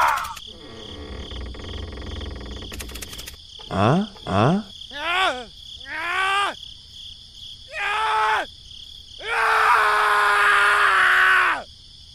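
Cartoon character voice effects with no real words: two quick rising whoops about four seconds in, a few short arching cries, then one long held groan that drops at the end. A low rumble runs under the first few seconds.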